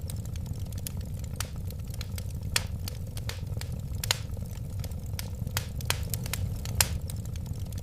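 Wood fire burning in a fireplace: a steady low rumble of flames with irregular sharp crackles and pops, about two a second.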